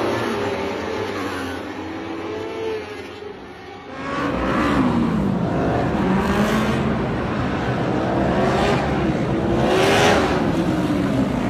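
Superbike racing engines at high revs, the pitch climbing and dropping through gear changes. The sound dips about four seconds in, then comes back with several rising, louder passes.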